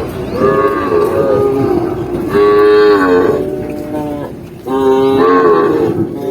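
Cattle mooing: three drawn-out calls of about a second each, some overlapping.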